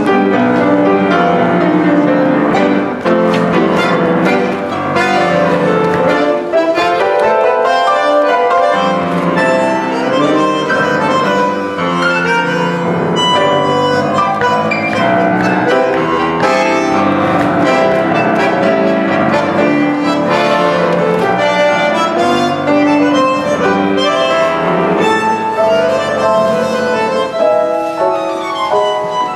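Bandoneon and piano playing an Argentine tango together, a steady run of dense melodic lines with no breaks.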